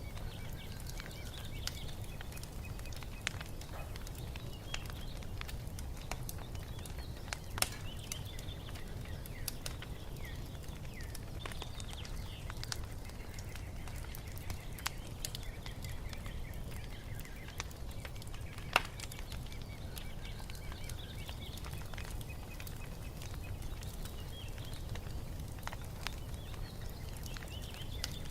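Wood fire crackling with a steady low rush and scattered pops, two louder pops at about eight and nineteen seconds in, under repeated short chirps of songbirds.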